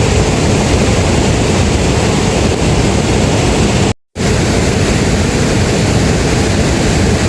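Heavy rain pouring, a loud steady hiss, cut off abruptly for a moment about four seconds in before it resumes.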